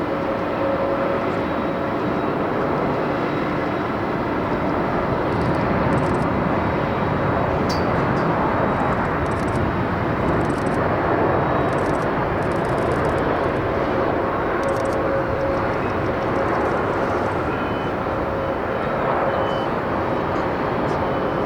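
Jet airliner engine noise during landing traffic: a steady roar with a faint hum in it.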